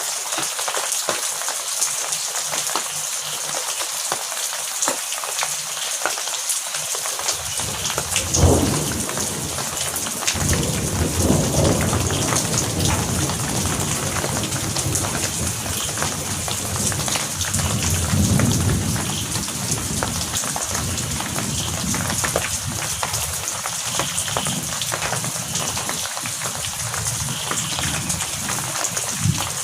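Heavy rain falling steadily. About a quarter of the way in, thunder breaks in with a sharp peak and rolls on as a low rumble, swelling again past the middle and fading out about two-thirds of the way through.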